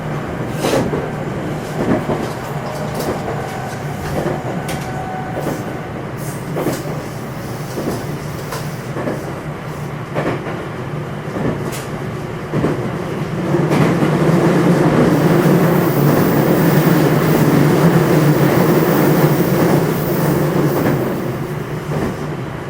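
A JR West 227 series electric train (motor car KuMoHa 227-7, Hitachi IGBT VVVF inverter) running, heard from inside the car: a steady rolling hum with sharp clicks of the wheels over rail joints. A little past the middle the running noise swells louder for several seconds, then eases again near the end.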